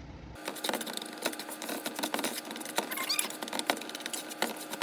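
Rice frying in hot grease in a pan, a dense irregular sizzling crackle as it browns.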